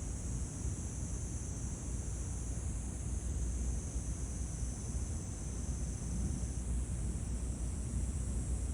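Steady high-pitched chorus of insects singing, over a low steady rumble.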